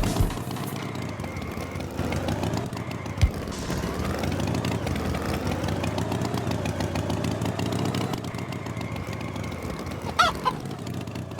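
Cartoon tractor engine sound effect running steadily, its pitch drifting up and down, with a single knock about three seconds in and a brief high-pitched sound near the end.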